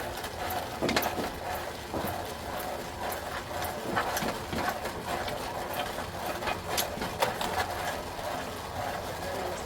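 Concrete mixer running: a steady mechanical hum with frequent gritty clicks and scrapes from the concrete mix.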